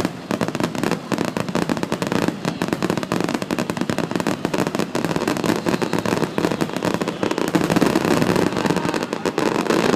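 Fireworks display: aerial shells bursting in rapid, dense succession, many reports a second with no pause between them.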